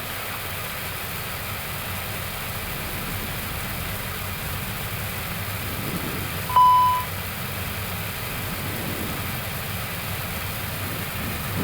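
Steady hum of an Airbus A321neo cockpit on the ground, with a single short electronic beep about six and a half seconds in.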